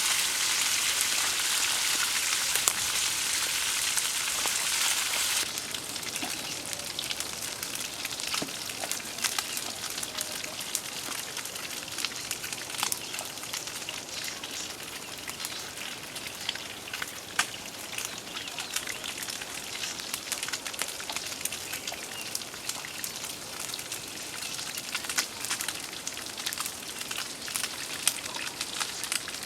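Rain falling: a steady hiss with scattered sharp taps and crackles. A denser, louder hiss for about the first five seconds cuts off suddenly to a softer one.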